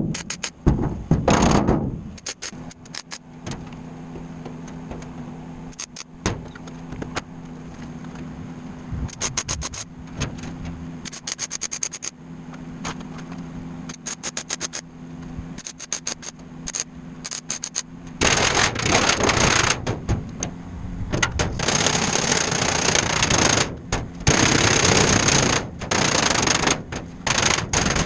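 Workshop metalwork sounds: many sharp clicks and rapid crackling strokes over a steady low hum, with longer stretches of dense, hissing crackle in the last third.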